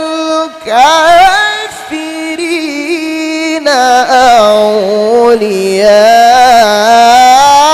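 A qari reciting the Quran in melodic tilawah style with a very high, smooth voice. He draws out long held notes with wavering ornaments. There is a brief break about half a second in, and a new, lower-starting phrase begins near four seconds.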